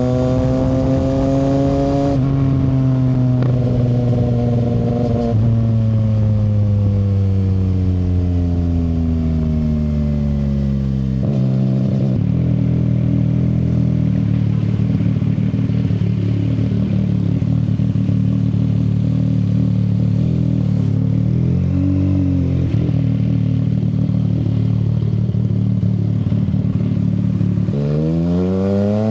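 CFMoto 675 SR-R's three-cylinder engine through an aftermarket shorty exhaust, slowing down with engine pitch falling for about ten seconds, then idling steadily. Near the end it revs up again as the bike accelerates away.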